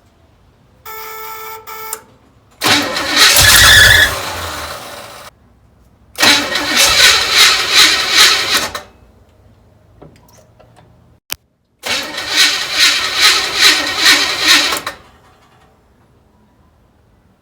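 Chevrolet 350 small-block V8 being cranked by its starter on a first start attempt, in several tries with an even pulsing beat and a click between them. The engine does not catch, and the cranking is taken for a weak battery. A short buzzing tone comes first.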